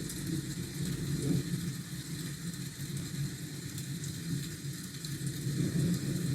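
Rain ambience: steady rain hiss under a low, continuous rumble, as of distant thunder or city traffic.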